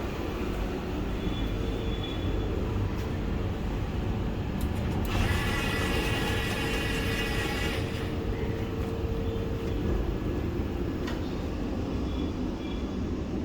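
Vande Bharat Express electric train running on the rails: a steady low rumble with a faint steady hum. For about three seconds in the middle a brighter, higher hiss with a whine in it rises over the rumble.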